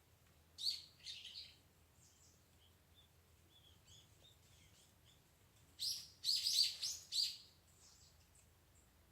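Small birds chirping: a short run of high chirps about half a second in, faint twittering through the middle, then a louder burst of rapid chirps around six to seven seconds in.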